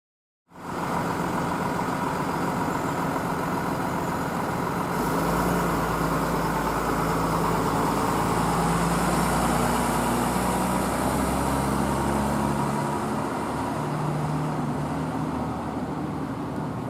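Large truck engine running, with road traffic noise and no siren. It cuts in about half a second in, and a deeper rumble builds from about five seconds in and drops away near thirteen seconds.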